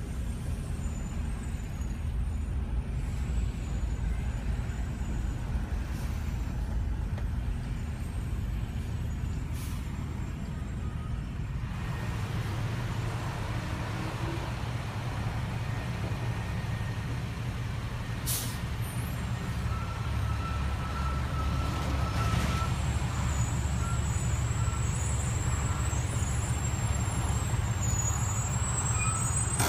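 Low, steady rumble of idling and slow-moving vehicle engines in stop-and-go traffic, heard from inside a car, with a couple of brief sharp clicks about two-thirds of the way through.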